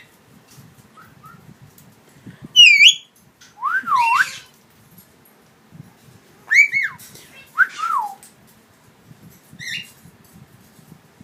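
A Maximilian pionus parrot chirping, with a couple of short, high, squeaky calls, amid four swooping whistled notes that rise and fall.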